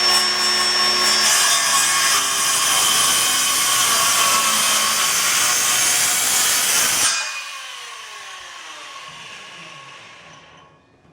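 Electric circular saw cutting through wood framing for about seven seconds, then released and spinning down with a falling whine that fades away.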